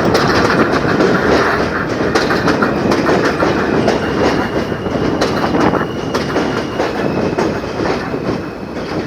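New York City Subway R160 train approaching a station on elevated track, running steadily with wheels clattering over the rail joints. A faint high whine joins about four seconds in.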